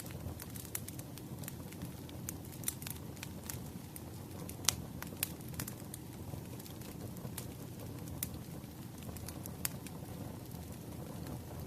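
Burning firewood crackling, with scattered sharp pops over a low steady rush of the fire; the loudest pop comes a little under five seconds in.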